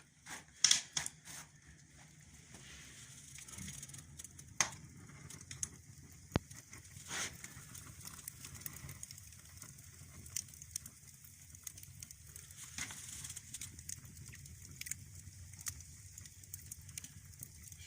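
Wood fire burning in the firebox of a newly built brick stove-fireplace: scattered crackles and pops, a few louder ones, over a faint steady low rumble. The stove is drawing well with the main damper open and the direct-pass (summer) damper closed.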